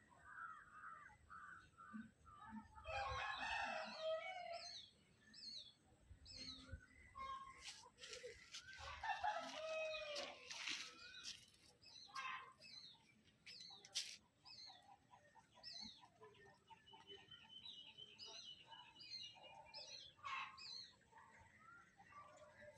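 Birds calling: two longer, louder calls about three and nine seconds in, among many short, high chirps.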